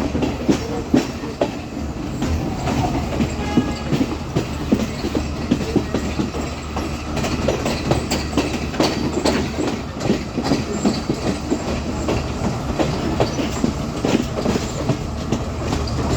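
Class S12 diesel multiple unit running along the line: wheels clattering irregularly over the rail joints, over a steady low drone.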